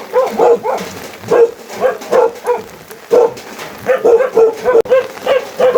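A dog barking repeatedly in short barks, at times two or three a second.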